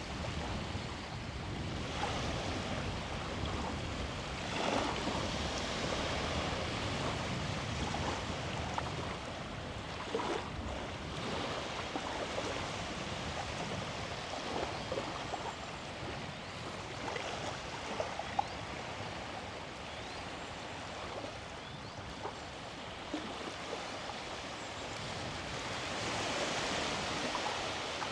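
Small sea waves washing onto a beach: a steady rush that swells louder and eases again, with a few faint short ticks.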